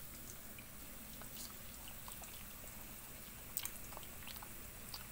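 Someone chewing crispy home-made french fries: faint, scattered crunches and clicks, with a few sharper ones about three and a half seconds in.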